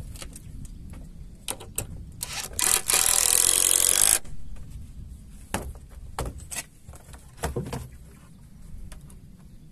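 Woodworking on pallet timber: knocks and scrapes of the wood being handled, and a power tool running in the wood for about a second and a half, stopping suddenly.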